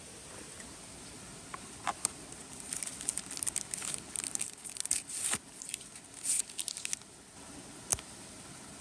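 Irregular crinkling and rustling, like something being handled, in clusters through the middle, with one sharp click near the end, over a steady hiss.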